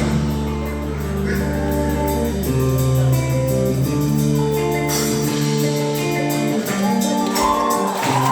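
Instrumental break of a live song: guitar chords over a held low note, which drops out about five seconds in.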